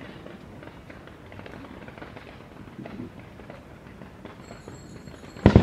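Fireworks display: a low background with faint scattered pops, then one loud firework bang near the end.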